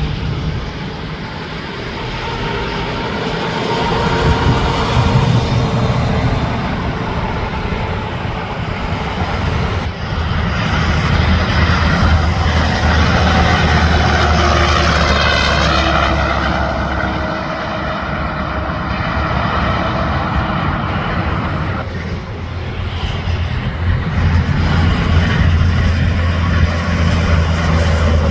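Interstate highway traffic: trucks and cars passing one after another. The tyre noise and engine drone swell and fade as each vehicle goes by.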